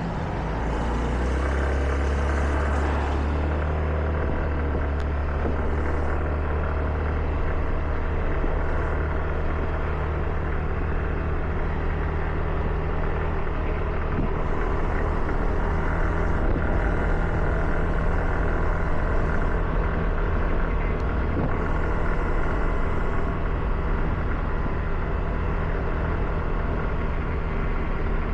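Car driving with a steady low engine drone and tyre noise on a wet road, the higher hiss swelling at times.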